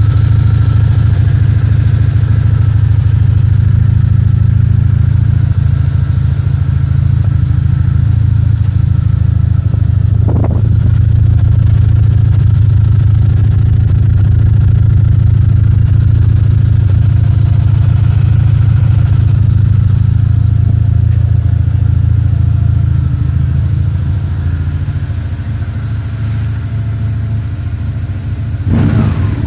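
BMW R1150R's boxer twin running steadily through an aftermarket silencer, with a short blip about a third of the way in and a quick rev that falls away near the end.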